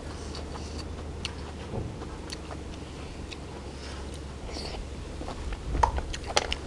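Close-miked biting and chewing of field snails from a spicy papaya salad: scattered small clicks and crunches, with a cluster of louder crunches near the end.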